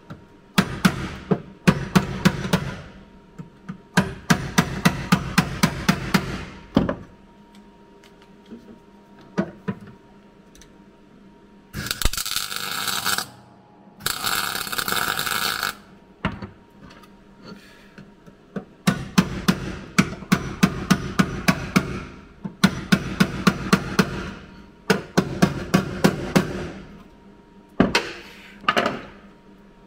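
MIG welder laying short tack and stitch welds on a car's steel floor pan, in bursts of two to three seconds of crackling, with two hissier bursts near the middle.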